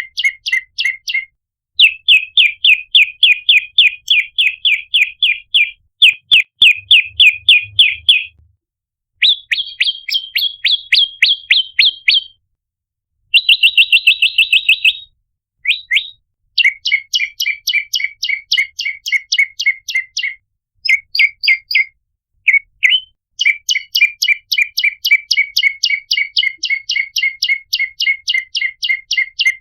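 Prenjak lumut (red-headed prenjak) calling: fast runs of sharp, repeated chirping notes, several a second, in bursts of a few seconds with brief pauses. Some runs are pitched higher than others.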